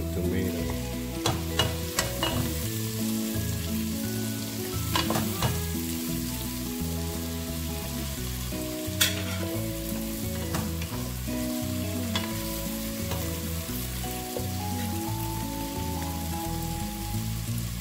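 Onion, garlic and diced tomato sizzling in hot oil in a pot while a wooden spatula stirs and scrapes, with a few sharp knocks of the spatula against the pot. Background music with a changing melody plays over it.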